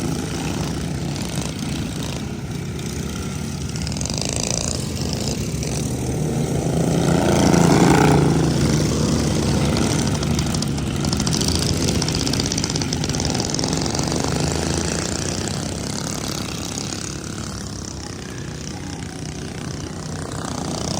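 Several riding lawn mower engines running at full throttle as they race around a dirt track, growing louder about eight seconds in as the mowers pass close by, then fading.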